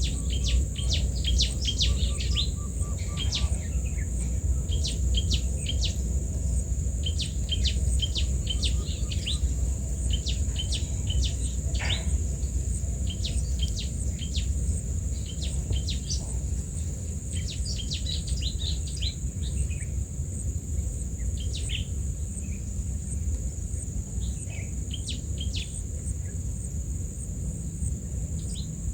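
Small birds chirping in quick short clusters over a steady, high-pitched insect drone, with a low rumble underneath.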